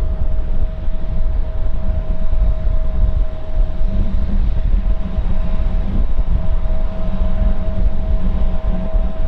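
Jet airliner engines running steadily: a continuous low rumble with a steady whine held over it.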